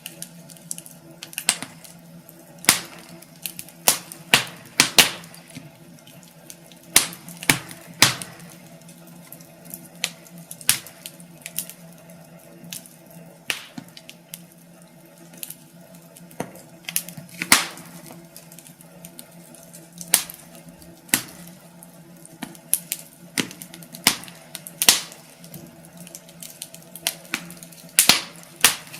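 Wood fire crackling in a fireplace: irregular sharp pops and snaps, some loud, over a steady low hum.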